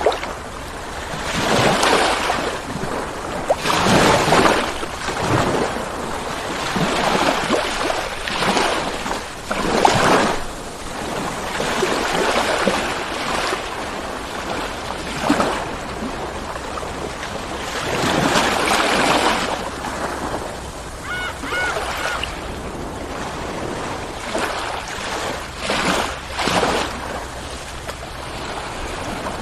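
Ocean waves breaking and washing up the shore in repeated surges, each swelling and fading over a second or two, with a brief high chirping about two-thirds of the way through.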